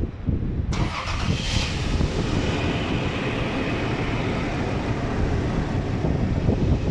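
Freshly rebuilt Toyota Land Cruiser V6 engine running steadily. About three-quarters of a second in, a brighter hiss joins it suddenly and fades over the next few seconds.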